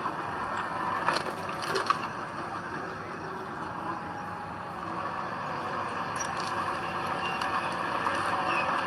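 Heavy diesel earthmoving machinery running steadily, with two sharp metallic clanks between one and two seconds in.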